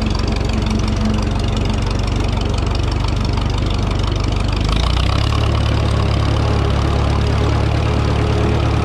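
Vintage farm tractor's engine running steadily, then picking up speed a little under five seconds in and running on at the higher speed.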